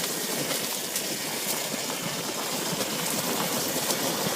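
Dirt bike coasting downhill with its engine switched off: a steady rush of wind on the microphone and tyres rolling over the dirt trail.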